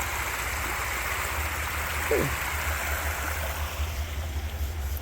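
Rushing water of a woodland creek, a steady hiss-like rush that thins a little near the end.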